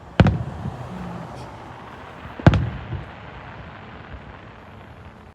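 Fireworks going off: two sharp bangs about two seconds apart, each followed by a brief rumble.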